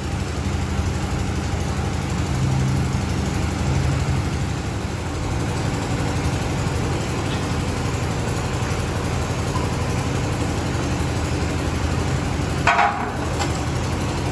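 A machine running steadily with a low, even hum, and one brief sharper sound near the end.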